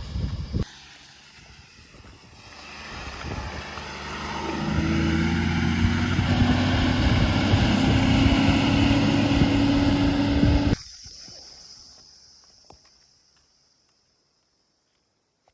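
A JCB backhoe loader's diesel engine revs up over a few seconds and holds at a high working pitch, with a few knocks just before. It cuts off suddenly about two-thirds of the way through, and what is left fades out.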